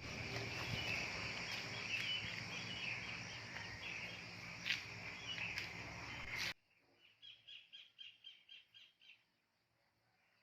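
Wild birds calling over noisy open-air ambience, cut off abruptly about six seconds in. A much quieter stretch follows, with a quick run of about ten short, harsh repeated calls, roughly five a second.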